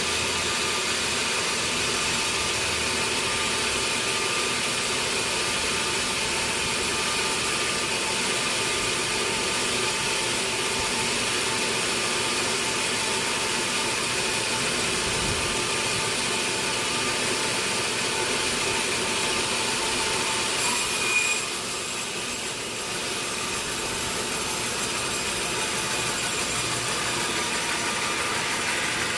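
Sawmill saw cutting through a large teak log, a steady mechanical run with a high whine. About two-thirds of the way through, a brief jolt, then the whine breaks off and the sound drops a little.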